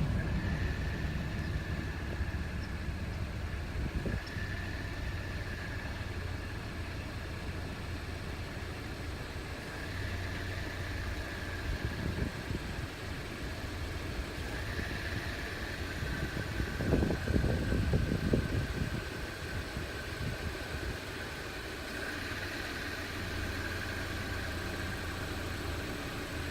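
Car engine running steadily with a low rumble, which grows louder for a second or two about seventeen seconds in.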